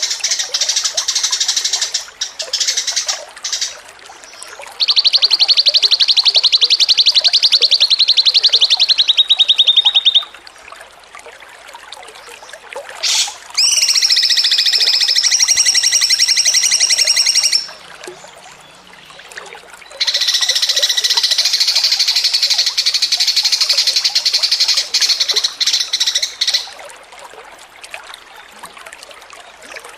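Songbird singing loudly in long, rapid, high trills: a varied phrase at the start, then a fast trill from about five seconds in that drops in pitch before stopping about ten seconds in, and two more sustained trills starting around fourteen and twenty seconds in, with softer scattered notes between them.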